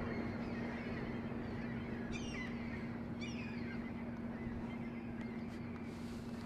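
Two short bird calls about a second apart, over a steady hiss and a low steady hum.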